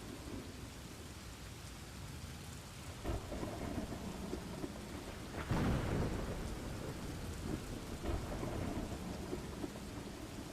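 Steady rain in a thunderstorm with low rumbles of thunder. A louder thunderclap comes about halfway through.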